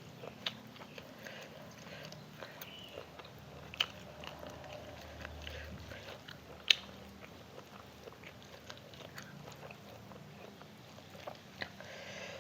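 A person chewing and biting food close to the microphone, with scattered short mouth clicks; the sharpest click comes a little past halfway.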